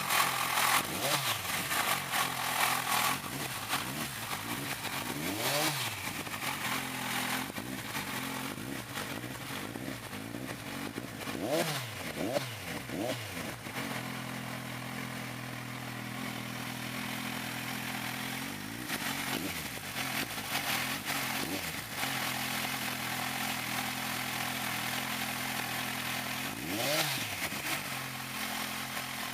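Kawasaki motorcycle with an SC-Project aftermarket exhaust idling, with about eight quick throttle blips that rise and fall in pitch, three of them in quick succession midway.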